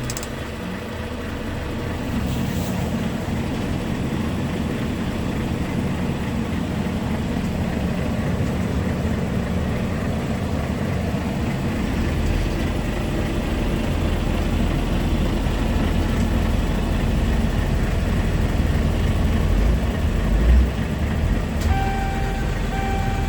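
Scania R tractor unit on the move: steady engine and road noise that builds over the first couple of seconds and grows heavier and lower about halfway through. Near the end a repeating electronic beep starts.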